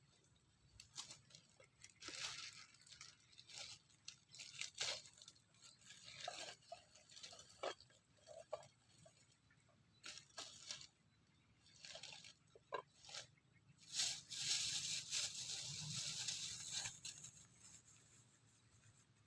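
Irregular tearing and crunching noises, short scrapes and clicks, with a longer, louder rasping stretch about two-thirds of the way through.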